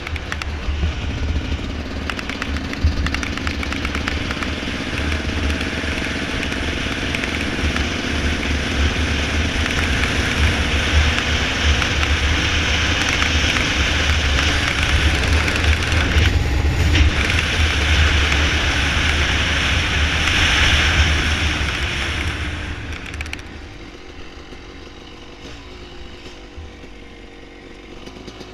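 Dirt bike engine running as it is ridden along a trail, its pitch rising and falling with the throttle, over a steady low rumble. About 23 seconds in it drops to a much quieter, lower running.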